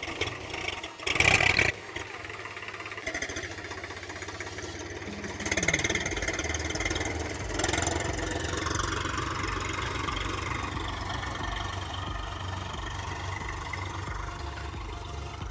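A 48 hp tractor's diesel engine running steadily with a low, even throb, and a short loud burst of noise about a second in.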